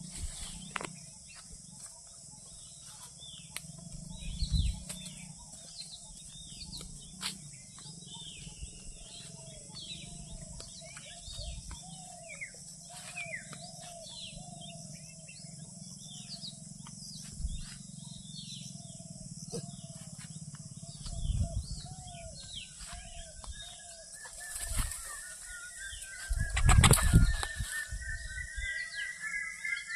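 Small birds chirping over and over in short falling notes, with scattered low thumps and a loud rustling burst late on; a thin rising whistle-like tone comes in near the end.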